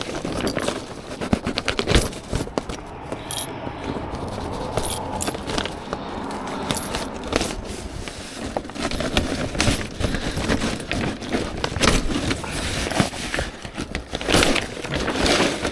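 Thick polythene damp-proof membrane (visqueen) crackling and rustling as it is handled, with many small sharp clicks and scrapes.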